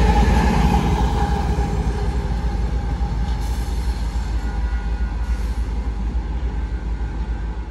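Freight train of coal hopper cars with a diesel locomotive at its rear rolling past and moving away: a steady, heavy rumble of wheels on rail that slowly fades as it recedes.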